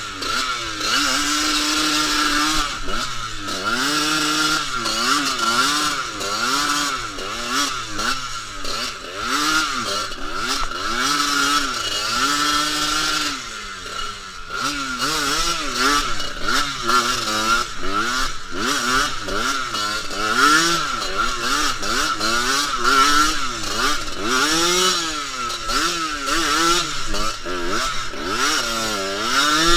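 Dirt bike engine revving up and down repeatedly as it is ridden, the pitch rising and falling every second or two with a few short held notes, over a steady high whine.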